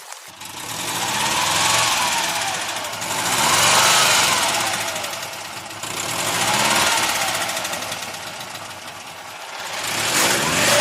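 Engine-like motor sound that swells and fades in waves about every three seconds, its pitch rising and falling with each swell.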